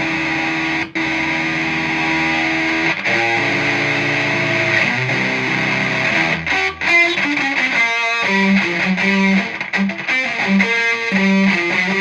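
Fender Esquire electric guitar on its bridge pickup, driven through the Stomp Box Fuzz pedal with its two fuzz channels stacked, into a clean amp. Sustained fuzzed chords ring for about three seconds with a brief break around one second in, then the playing moves through changing notes into a faster riff of short, choppy repeated notes.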